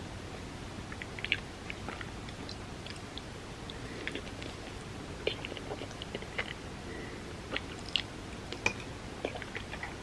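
Close-miked eating sounds of creamy rice pudding: small wet mouth smacks and clicks while chewing, coming irregularly over a steady background hiss.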